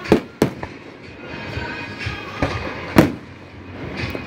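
Aerial fireworks shells bursting overhead: two sharp bangs in quick succession at the start and a louder one about three seconds in.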